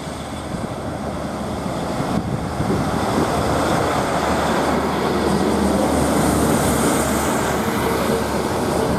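Class 156 Sprinter diesel multiple unit pulling away, its underfloor Cummins diesel engines working under power. The noise builds over the first few seconds, then holds steady as the train accelerates out.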